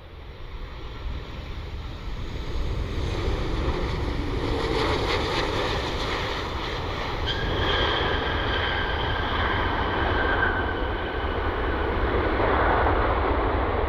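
Jet airliner on approach passing by: jet engine noise builds over the first few seconds, with a high engine whine in the middle, over a low rumble of wind on the microphone.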